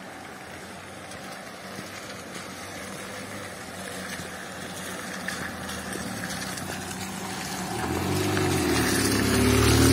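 Saipa Pride sedan's engine running at low speed as the car creeps closer on a muddy dirt track, growing steadily louder and loudest near the end as it comes alongside.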